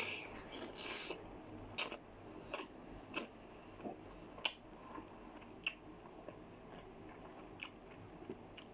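Close-up eating sounds: a short rustle at the start, then scattered sharp, wet clicks a second or so apart as a mouthful of kebab meat and chips is eaten.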